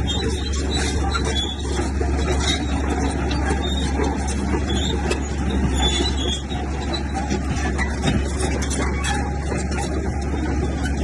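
Heavy earthmoving machinery at work: a steady low diesel engine drone under continuous rattling and clanking, with short sharp squeaks and clinks scattered throughout.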